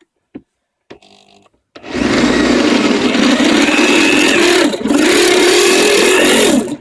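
Power drill driving the largest titanium-coated HSS step drill bit through 3 mm mild steel, a steady whine and cutting screech that starts about two seconds in, falters briefly partway through, and cuts off just before the end. The bit goes through without trouble.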